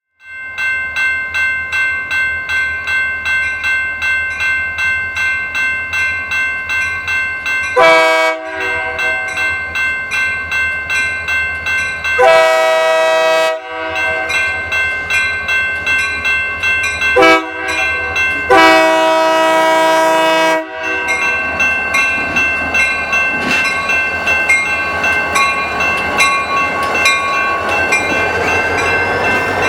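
Train horn sounding four blasts, two short and two long, over a bell ringing steadily about twice a second. In the last third the rumble of the train grows as it passes.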